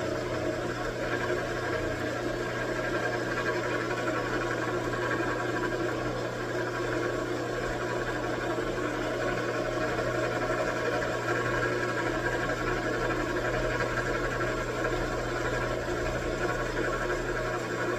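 Metal lathe running steadily as it turns down a bar, the insert tool taking a cut: a constant motor hum under even machining noise.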